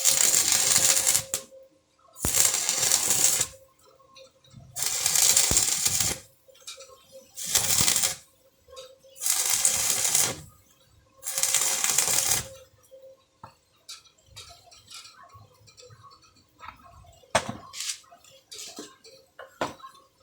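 Electric arc welding in six short bursts of crackling hiss, each about a second long. A few light clicks and taps follow near the end.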